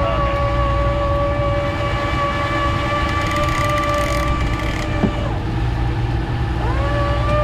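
Big-game trolling reel's drag buzzing as a hooked ono pulls line off, a steady whine that fades about four and a half seconds in and starts again near the end. A boat engine rumbles underneath, with a single knock about five seconds in.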